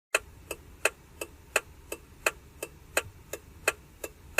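Steady mechanical ticking, about three sharp ticks a second, over a faint hiss.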